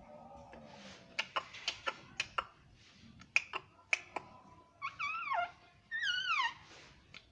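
Pet parrot making a run of sharp clicks, then two short calls that each slide down in pitch, about five and six seconds in.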